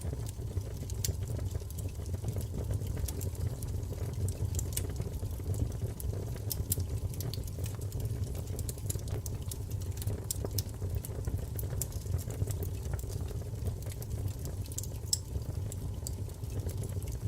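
Wood fire crackling and popping in a fireplace: a steady low rumble of flames with frequent sharp, irregular crackles.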